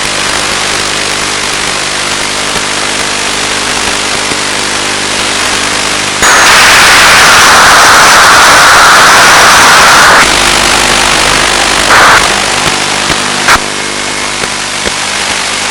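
Hiss and a steady multi-tone hum on the audio of an analog FPV video downlink. About six seconds in, a loud burst of static takes over for about four seconds, and shorter bursts follow around twelve and thirteen seconds: interference or signal breakup on the link.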